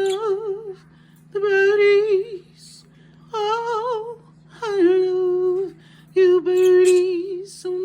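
A woman singing wordless held notes with a light vibrato, in five or six short phrases of about a second each with brief pauses between them.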